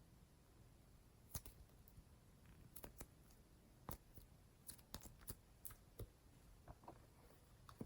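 Slime being worked by hand, giving faint, irregular small clicks and pops.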